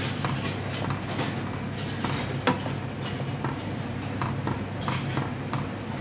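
Scattered light clinks and knocks of kitchen utensils on cookware, with one sharper knock about halfway through, over a steady low hum.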